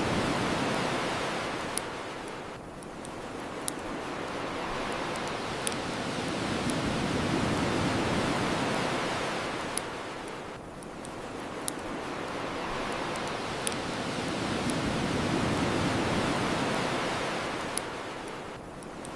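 Ocean surf washing on a shore, swelling and drawing back twice, with scattered sharp pops from a crackling bonfire.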